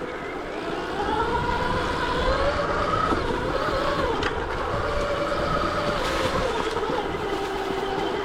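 Stark Varg EX electric dirt bike's motor whining, its pitch rising in the first couple of seconds, holding, then dropping near the end as the throttle changes, over a steady rush of wind and tyre noise.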